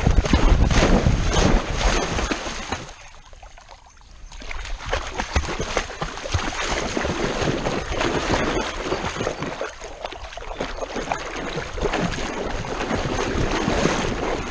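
Water splashing and sloshing right at a harness-mounted GoPro as a dog swims, paddling churning the water close to the camera. It drops away briefly about three seconds in, then carries on.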